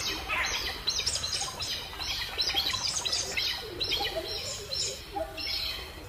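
Birds chirping: a quick string of short, high calls, several a second, with softer, lower chirps among them.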